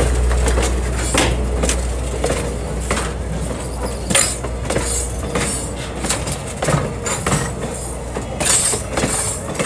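A train of a passenger coach and cabooses rolling slowly past: steel wheels clanking and clicking irregularly on the rails over a low rumble that eases off after the first couple of seconds.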